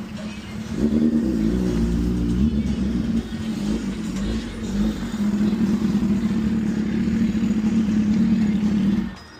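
Vehicle engine running, its pitch rising and falling briefly in the first seconds, then held steady before it switches off abruptly about nine seconds in.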